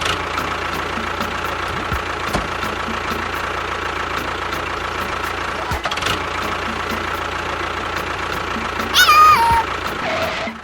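A small motor running steadily, with a short falling whistle-like tone about nine seconds in.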